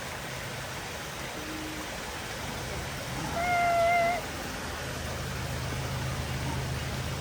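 A bird gives one short mewing call, held on a single slightly wavering pitch for under a second, about halfway through, over a steady background rush like running water.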